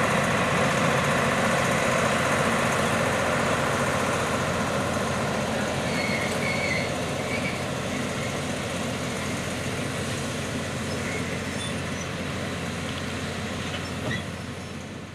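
Passenger train cars rolling past on steel wheels, a steady rumbling rail noise with a faint high squeal, gradually fading as the train moves on.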